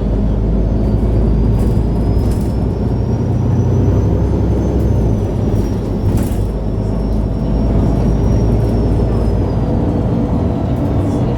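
MAN A23 Lion's City G articulated city bus (NG323) under way, its diesel engine running with a steady low drone, heard from inside the passenger compartment. A faint high whine rises, holds, and falls away near the end, with a few light clicks and rattles.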